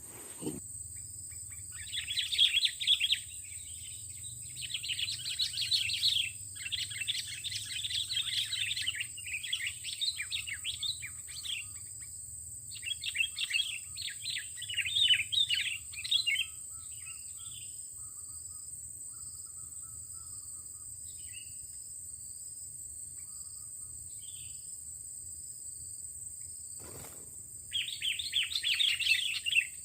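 Sooty-headed bulbul (kutilang) song: rapid chattering phrases repeated in bursts for most of the first half, a long pause, then another burst near the end. A steady high insect buzz runs underneath, and there is a single knock shortly before the last burst.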